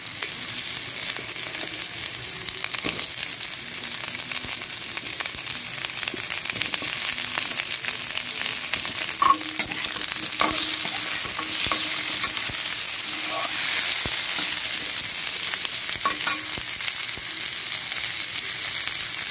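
Onions, potatoes and starfruit pieces sizzling steadily in mustard oil in a metal kadai over a medium flame, with a metal spatula scraping and clicking against the pan as they are stirred; two sharper knocks about halfway through.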